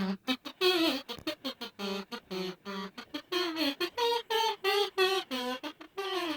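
Homemade kazoo tune: a quick run of short buzzy notes, about four or five a second, with pitch bending up and down, starting abruptly.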